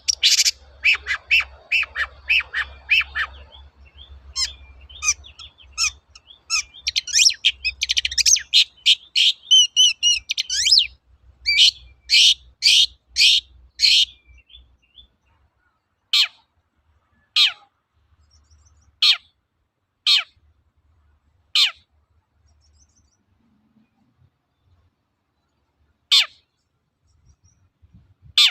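Long-tailed shrike (cendet) singing: a fast, dense run of harsh chattering notes and high whistles, then, about halfway through, single short falling calls about a second and a half apart, thinning out to two lone calls near the end.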